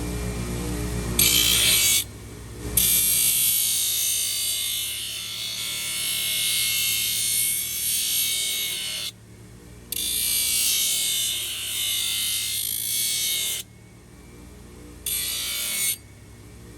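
A small power tool grinding or sanding a horse's hoof, running in spans of several seconds with short pauses, the longest of about six seconds. Faint background music runs underneath.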